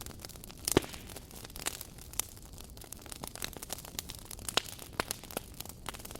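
Campfire burning with irregular crackling and sharp pops over a steady low hiss, the loudest pop a little under a second in and another about four and a half seconds in.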